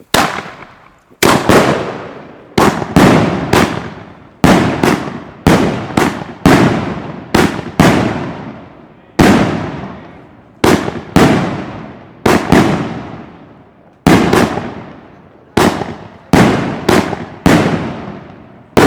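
El Gato Sonora firework firing a long string of loud bangs, some two dozen, at uneven gaps from a fraction of a second to about a second and a half, each one ringing out in a long fading echo.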